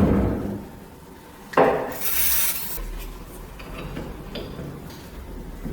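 Rusty metal parts of an antique hand-crank grinder being handled: a knock about a second and a half in, a short scrape, then light clinks and rubbing.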